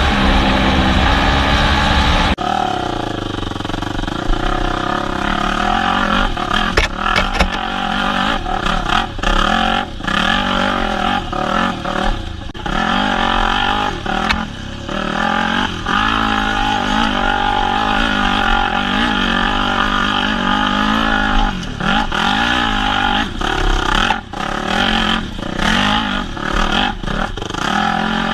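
Yamaha WR250F single-cylinder four-stroke dirt bike engine being ridden on trail, its note rising and falling as the throttle is opened and closed, with scattered knocks. A different steady sound cuts off suddenly about two seconds in.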